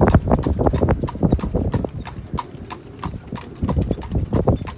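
Horse's hooves clip-clopping as it pulls a buggy, many quick sharp hoof strikes over a steady low rumble.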